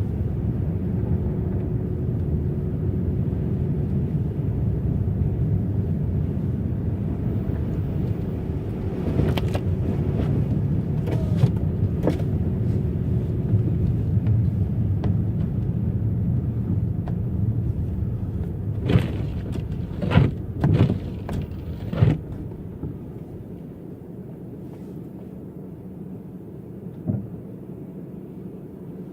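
Car tyres and suspension rumbling steadily inside the cabin while driving on a rough, snowy road, with several sharp knocks and bumps between about 9 and 22 seconds in. The rumble then drops noticeably quieter.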